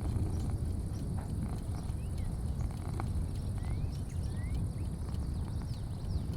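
Front-porch afternoon ambience: a steady low rumble, a continuous high insect drone, and a few short rising bird chirps.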